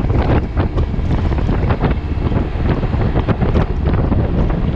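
Heavy wind buffeting on the microphone of a maxi-scooter moving through heavy rain, with quick, irregular taps of raindrops striking close to the microphone.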